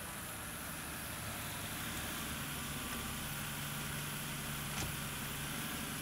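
BMW car engine running as the car rolls slowly up and stops, then idling steadily, with one light click about five seconds in.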